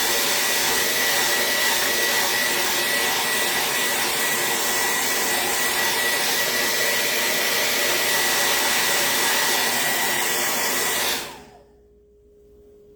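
Handheld dryer blowing hot air over a freshly painted surface to dry it: a steady loud rush of air with a thin high whine, switched off about eleven seconds in.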